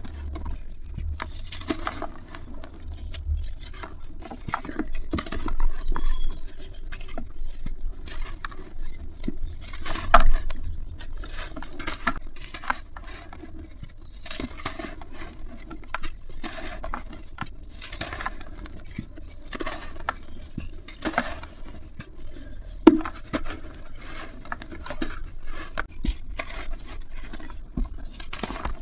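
Brittle material crumbling and crushing: a long irregular run of small cracks, scrapes and pattering bits, with a few louder cracks.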